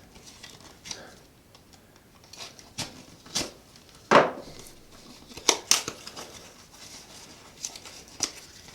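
A cardboard product box being cut open, with scattered snips, scrapes and clicks of the blade through the cardboard and the flaps being handled.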